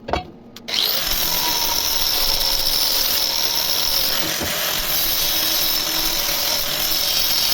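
Electric power saw cutting a steel profile: a click, then the motor and blade start about a second in and run steadily through the cut with a high whine over loud grinding noise.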